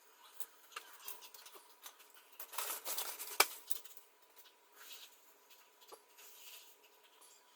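Faint hand-work handling noises: light scraping and rubbing with scattered clicks, busiest a few seconds in and topped by one sharp click.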